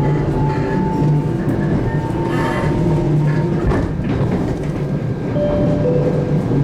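JR Kyushu 813 series electric train running, heard from inside the car: a steady rumble with held electrical whine tones that step down in pitch near the end.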